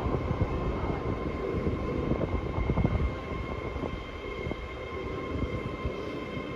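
A train running along the platform, a steady whine over rumbling noise with scattered clicks of the wheels, getting gradually quieter.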